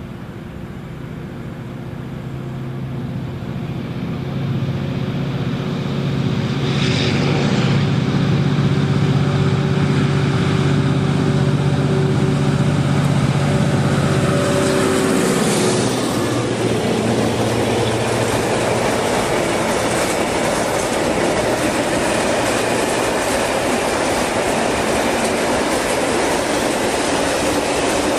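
A diesel locomotive hauling a long freight train approaches and passes. Its engine drone grows louder, then drops in pitch about halfway through as it goes by. The freight wagons then roll past with a steady rumble and clatter of wheels on rail.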